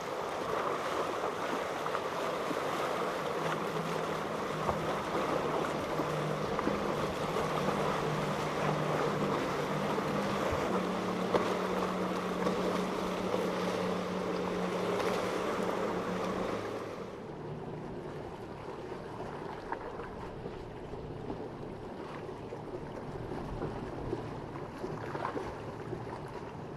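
Boat engines running over wind and rough water, the engine hum holding steady notes that shift in pitch a couple of times. About 17 seconds in the sound drops suddenly to a quieter wash of wind and water.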